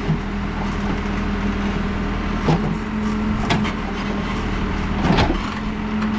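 New Holland backhoe loader's diesel engine running steadily under work, with three sharp knocks about two and a half, three and a half and five seconds in as the bucket works in the stony trench.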